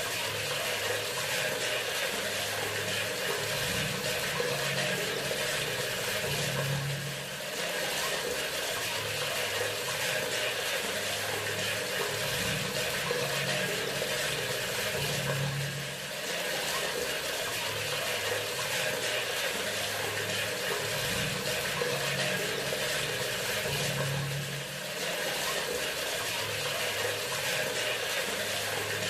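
Water running steadily from a bathroom sink faucet, with brief dips in level about every eight or nine seconds.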